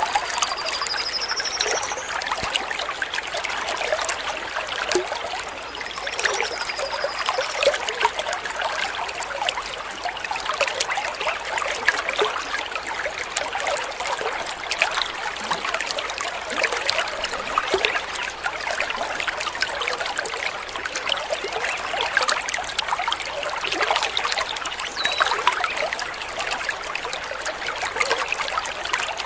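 Water trickling and babbling steadily, with a bird giving a short high rising call near the start and another about six seconds in.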